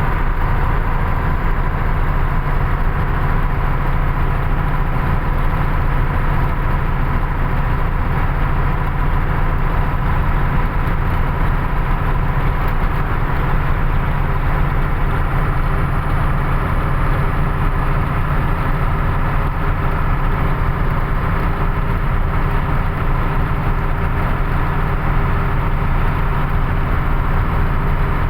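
Truck engine running steadily: a constant low drone with steady tones over it, unchanging throughout.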